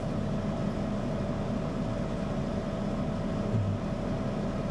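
Hair dryer running steadily, a constant blowing noise with a low hum, with one brief low bump about three and a half seconds in.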